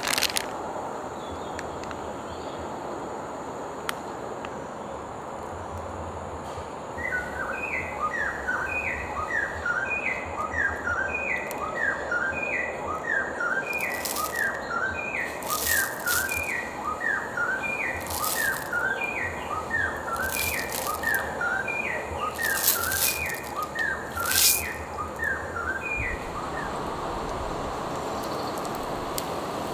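A bird chirping a long run of quick, short falling notes in regular phrases, about one phrase a second, starting about seven seconds in and stopping shortly before the end. Steady background hiss throughout, and a few sharp crinkling clicks of snack packaging being handled in the second half.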